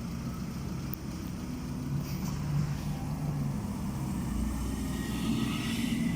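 A train approaching: a steady low rumble with a hum that grows slowly louder.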